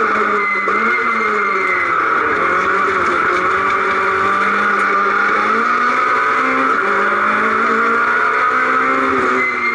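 Citroën C2 R2 rally car's 1.6-litre four-cylinder engine heard from inside the cabin, running hard, its pitch repeatedly rising and falling as it accelerates and lifts off.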